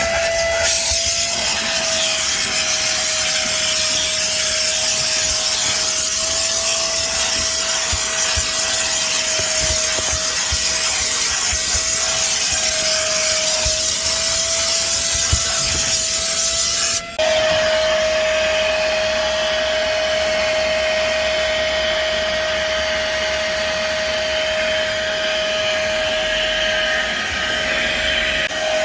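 Vacuum cleaner running: a steady motor whine over a rush of air. It cuts out for an instant about 17 seconds in and picks up again at a slightly lower, steadier pitch.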